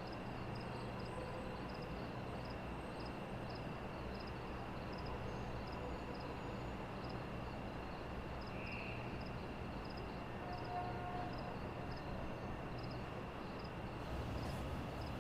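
Night ambience of crickets chirping, short chirps repeating about twice a second, over a faint steady hum.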